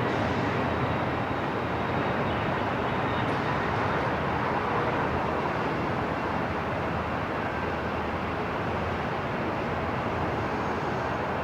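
Airport ambience: a steady, even rumble and hiss with no distinct events.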